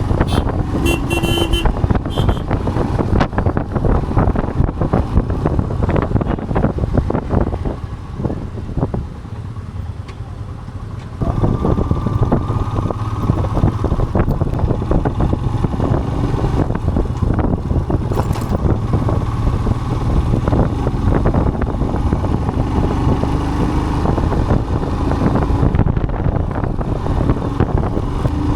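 Vehicle engine and road noise while travelling, a continuous low rumble. It eases off for a few seconds about a third of the way through, then picks up again suddenly.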